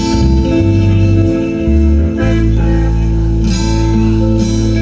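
Live gospel band playing an instrumental introduction with guitar and bass, the chord held steady from about halfway through.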